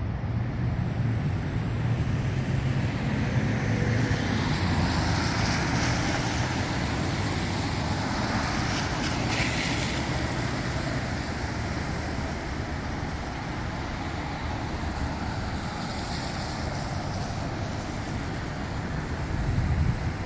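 Steady low engine drone mixed with wind rushing over the microphone.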